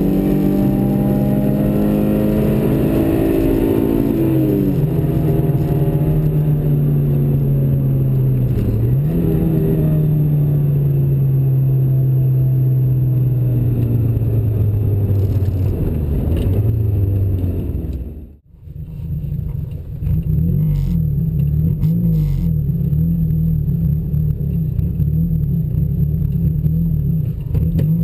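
Chevy Cobalt's 2.2-litre four-cylinder engine heard from inside the car on a drag-strip pass. It runs at full throttle with two gear changes, where the pitch drops and climbs again about five and nine seconds in, then winds down with a slowly falling pitch. After a sudden brief drop-out about two-thirds through, the engine runs at a steady low speed with a short rev near the end.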